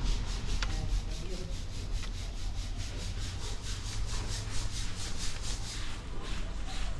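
Rapid, rhythmic scrubbing on a motorbike during washing, about six back-and-forth strokes a second, over a steady low hum.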